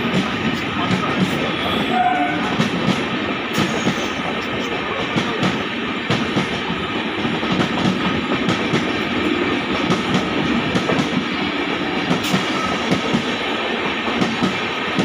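Passenger express train running past on the platform track, a steady rumble of coaches with wheels clattering over rail joints.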